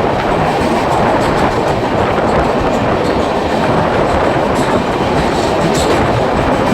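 Indian Railways passenger train running at speed, heard from on board: a steady, loud rumble of wheels on the rails with a few light clicks.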